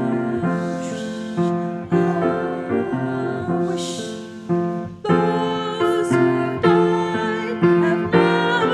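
A congregation singing a hymn with piano accompaniment.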